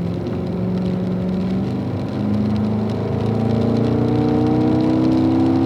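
Car engine accelerating out of a corner, its note stepping up and then climbing steadily over the last few seconds as the throttle is squeezed on.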